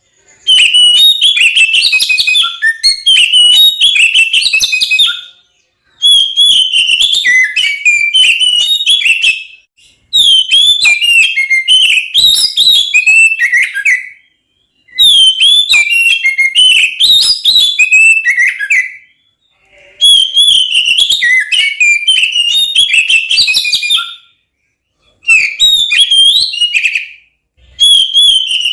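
Oriental magpie-robin (kacer) singing in full aggressive fighting mode: loud, rapid strings of varied whistles and chattering notes, delivered in bouts of about four seconds with brief pauses between them.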